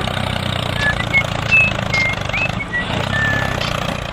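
A small engine running steadily with a low hum, with several short, thin high chirps or squeaks over it through the middle.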